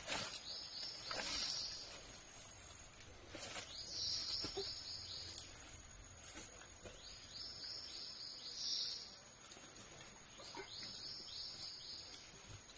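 A bird calling in the forest, repeating a short phrase of several quick, high, falling notes about every three to four seconds, with a few scattered crackles.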